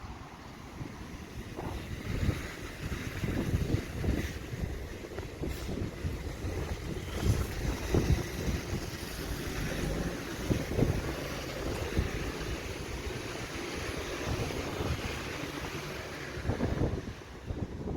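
Strong gusting wind buffeting the microphone in irregular low rumbles, over a steady rushing hiss.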